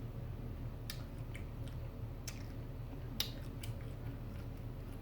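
A person chewing food, with scattered wet mouth clicks, the sharpest a little past three seconds in, over a steady low hum.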